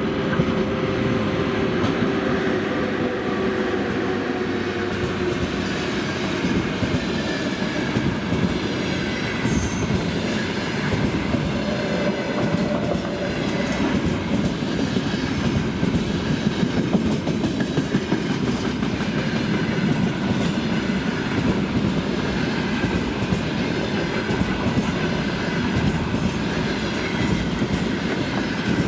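Loaded freight train rolling past at speed, its wagon wheels clattering steadily over the rails with occasional wheel squeal. A hum from the passing electric locomotive drops in pitch and fades over the first few seconds.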